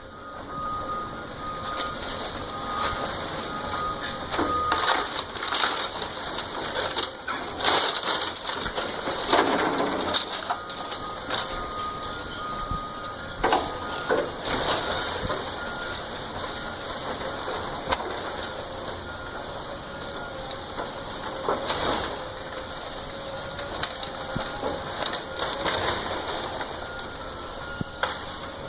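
A house being torn down: wood and debris crunching, cracking and breaking in irregular bursts over a steady background of machine noise.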